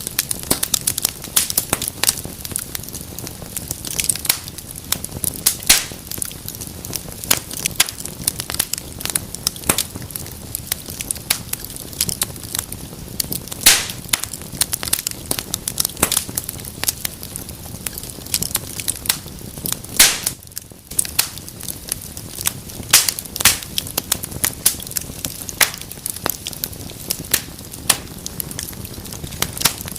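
Wood fire burning in a fireplace, crackling with frequent, irregular sharp pops and snaps over a steady low rush of flame, with a brief lull about two-thirds through.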